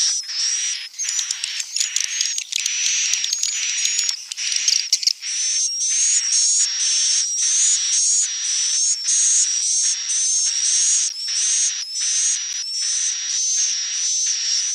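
Swiftlet lure call: a flock of swiftlets chirping and twittering in a dense, continuous, high-pitched chatter, with a short whistle-like note repeating about twice a second.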